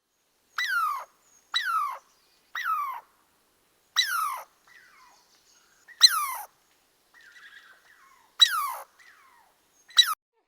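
An animal calling over and over: about seven short cries, each sliding steeply down in pitch, spaced one to two seconds apart, with fainter sounds between them.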